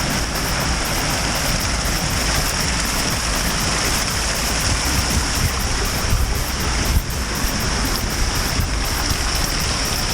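Steady rushing wind in a snowstorm, an even hiss with some buffeting underneath.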